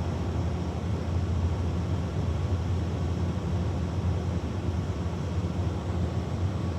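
Oxyacetylene torch flame burning steadily: a continuous rushing noise with a strong low rumble.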